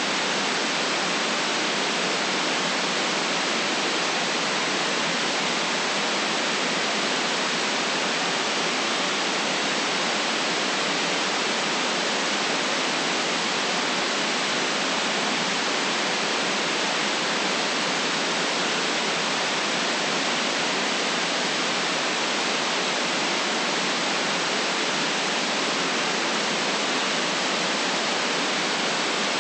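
Steady white noise: an even hiss with no deep rumble and no rise or fall in level.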